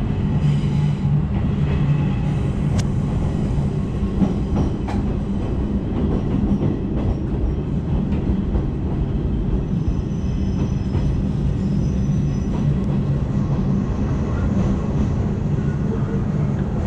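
Izuhakone Railway Daiyuzan Line electric train running, heard from inside the car: a steady rumble of wheels and running gear on the rails, with a few sharp clicks in the first few seconds.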